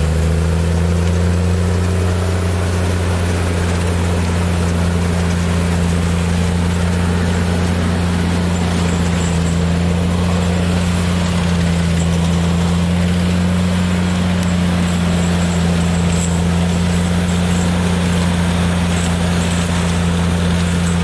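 Claas Xerion 3800 tractor's diesel engine running steadily at an even speed, a deep steady drone with no breaks.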